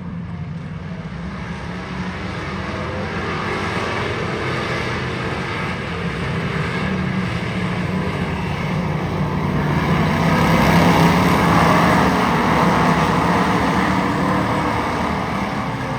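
Race car engines running, a steady engine drone that swells to its loudest about ten to twelve seconds in, then eases off.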